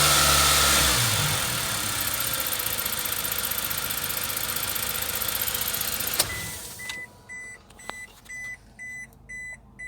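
Toyota Hiace 2.7-litre four-cylinder engine coming down off a rev and running steadily, then switched off with a click about six seconds in. A dashboard warning chime then beeps repeatedly, about two beeps a second.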